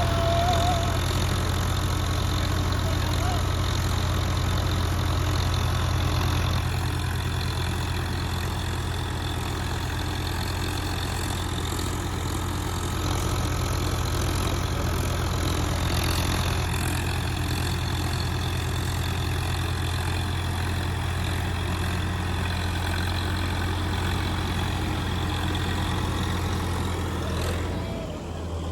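Diesel tractor engine running steadily with a deep, even drone.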